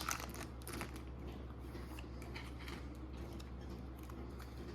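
Faint handling of a Pokémon booster pack's cards and foil wrapper: a few soft clicks and rustles in the first second, then scattered light ticks, over a steady low electrical hum.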